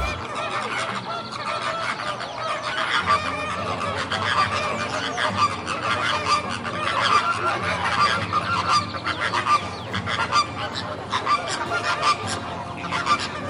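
A flock of birds calling, many short calls overlapping without a break.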